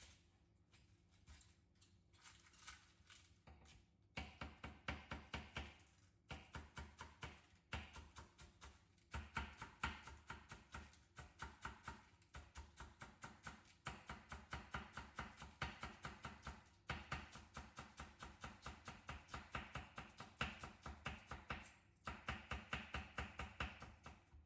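Kitchen knife shredding cabbage on a cutting board: quick, even cuts, about five a second, in runs of a few seconds with short pauses between.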